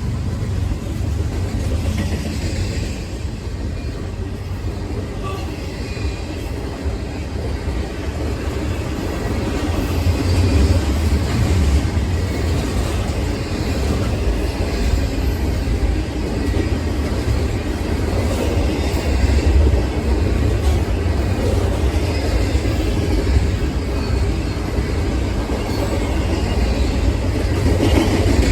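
A train rolling past on the rails: a steady low rumble of wheels and cars that grows a little louder about a third of the way in.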